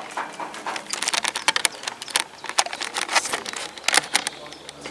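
A rapid, irregular run of sharp clicks and knocks, loudest in the middle and easing off near the end.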